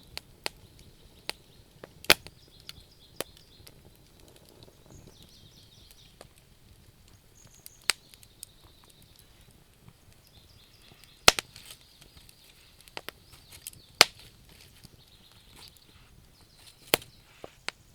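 Wood burning in a bonfire, crackling, with irregular sharp pops; the loudest pops come about 2, 11 and 14 seconds in. Faint high chirping continues in the background.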